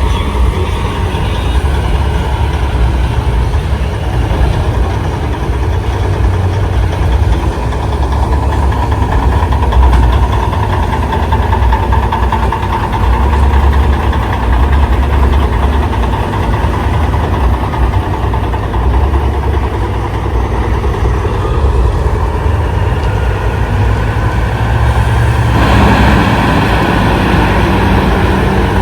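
Big-rig diesel engines running, a steady low rumble that grows fuller and louder about 26 seconds in.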